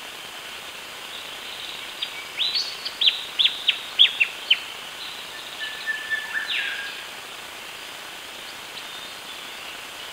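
A bird calling: a quick run of about eight sharply falling whistled notes about two seconds in, then a few more notes including a short held whistle around six seconds in, over a steady hiss.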